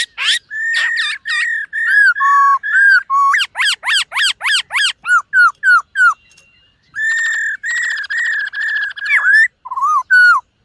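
Black-throated laughingthrush singing: loud, clear whistled notes in quick rising-and-falling series, with a brief pause about six seconds in and then longer held whistles.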